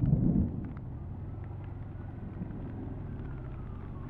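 Suzuki GSX400S Katana inline-four motorcycle engine running steadily at low revs, with a brief louder rumble at the start and scattered raindrop ticks.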